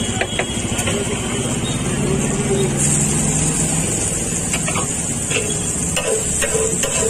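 Chopped onions and green capsicum frying in oil on a large flat pav bhaji tawa, with a steady sizzle. From about halfway through, a metal spatula clacks and scrapes against the tawa several times, each strike ringing briefly.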